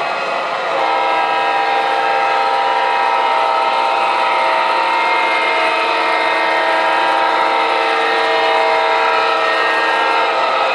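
Sound system of an MTH Premier O-gauge ES44AC model diesel locomotive sounding one long multi-tone horn blast through its onboard speaker, over a steady running noise. The horn starts about a second in and stops just before the end.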